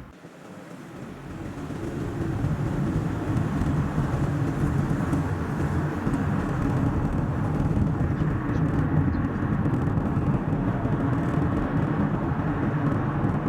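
A car driving on a road: a steady rumble of engine and tyre noise, sped up to double speed. The noise dips at the very start and builds back up over the first couple of seconds.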